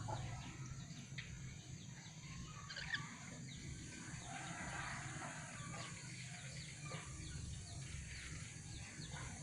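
Birds chirping with many short, quick calls over a steady low hum, with one sharp click about three seconds in.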